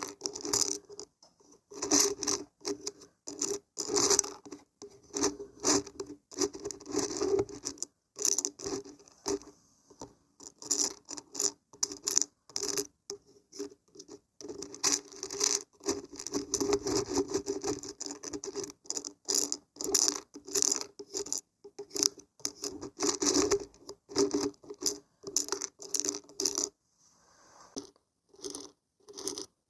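Dried beans and dried barberries shaken and stirred, a dry rattling and scraping in quick, uneven bursts, with a short lull near the end.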